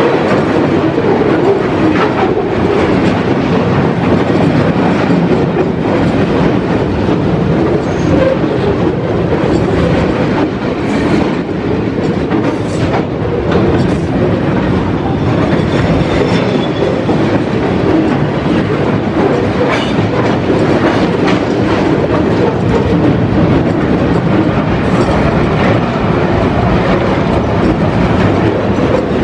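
Container flat wagons of a freight train rolling past close by: a steady, loud rumble of steel wheels on rail with irregular clicks as the wheels cross rail joints, and a faint wheel squeal around the middle.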